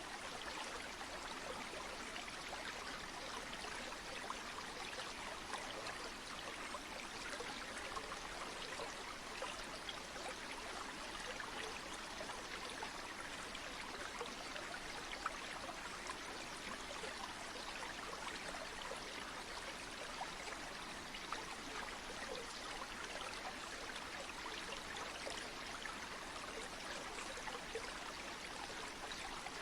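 River water flowing steadily: an even rushing with fine splashing that never changes.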